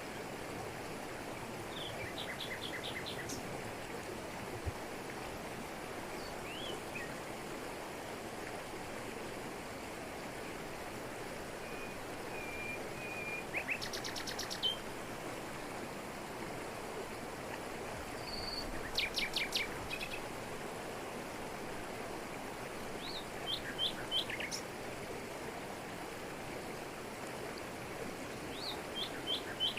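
Steady rush of a waterfall falling over rocks in tropical forest. Forest birds call over it in short phrases of quick repeated high notes, about six times.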